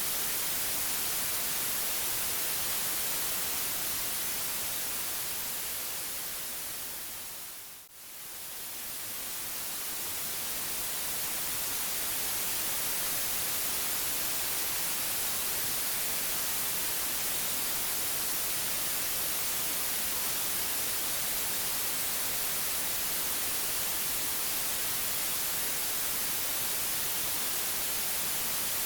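Steady white-noise hiss, brightest in the treble. It fades down over a few seconds to a brief dip about eight seconds in, then swells back up to its steady level.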